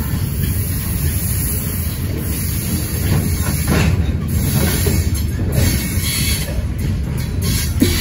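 Freight train cars, covered steel-coil cars, rolling past on the track: a steady rumble of wheels on rail, with a few sharp clacks in the second half.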